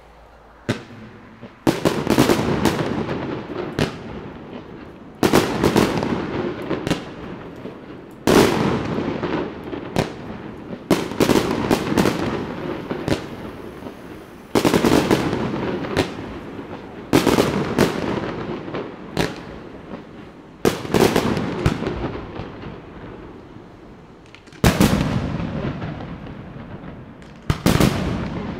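Aerial fireworks shells bursting, a loud bang about every three seconds after a quiet first second and a half. Each bang is trailed by crackling and a slow fade.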